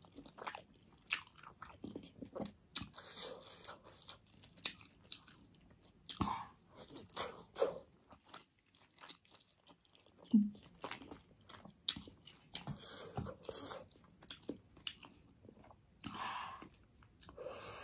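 Close-up mouth sounds of a person eating pork momo dumplings: chewing and biting with many irregular wet clicks and smacks, and a brief hum about ten seconds in.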